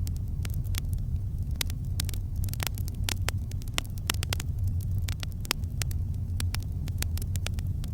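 Wood campfire crackling: frequent sharp, irregular pops and snaps over a steady low rumble.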